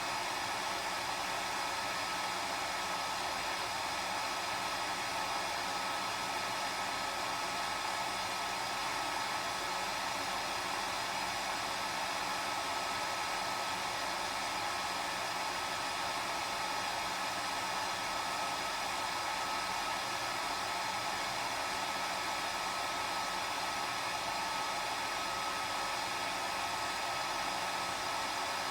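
Hair dryer running continuously at a steady speed: an even rushing of air over a steady motor whine, with no change in pitch or level.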